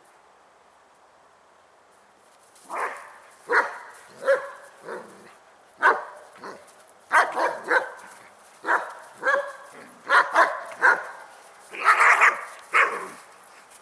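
Dogs barking in a run of sharp barks, starting about three seconds in and bunching together near the end. This is the sound of a scuffle in which two German Shepherds put a young beagle in its place.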